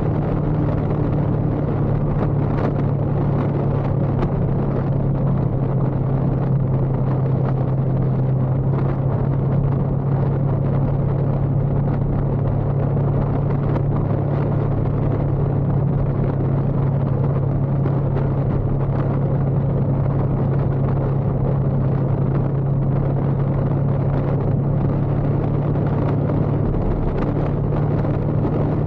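Motorcycle engine running steadily while riding, with a constant hum over wind and road noise. Its pitch eases slightly after the first couple of seconds and rises again near the end.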